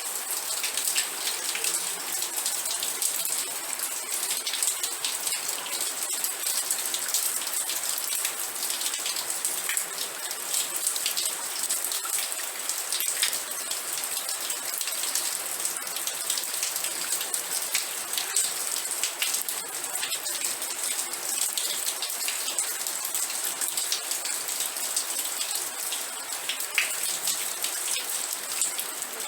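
Steady rain with dense drops pattering and ticking on a surface.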